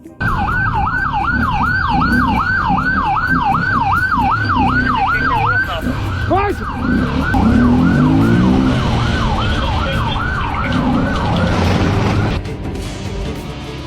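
Police siren on a fast up-and-down yelp, about three to four sweeps a second, over the rumble of a vehicle engine. It weakens somewhat past the middle and cuts off about a second before the end, leaving the engine and road noise.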